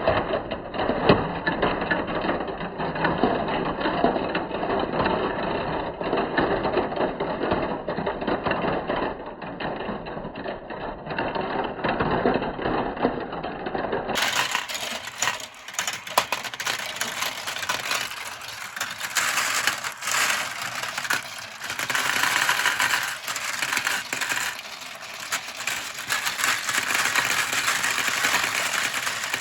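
Marbles rolling and clattering down a plastic marble-run slope track in a dense, continuous rattle of small clicks. About halfway through the sound abruptly turns brighter and thinner.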